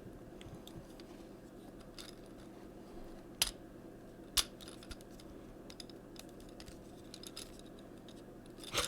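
Plastic parts of a Transformers Siege Hound action figure clicking as it is handled and transformed. Scattered small clicks, two sharper snaps a few seconds in, and a louder click near the end.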